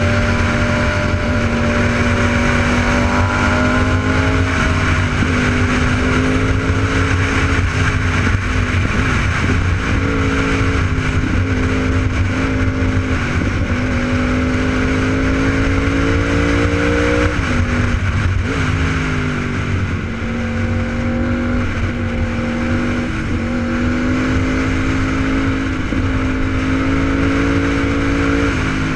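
Sport motorcycle engine running under way, its pitch climbing slowly and dropping sharply about two-thirds of the way through as a gear changes, over a steady rush of noise.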